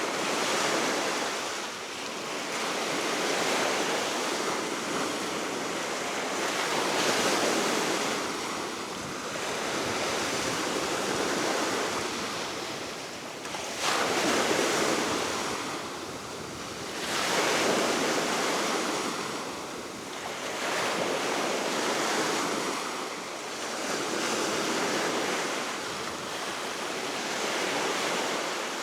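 Baltic Sea waves breaking and washing ashore, swelling and fading every few seconds, with one sharper crash about halfway through, under steady wind.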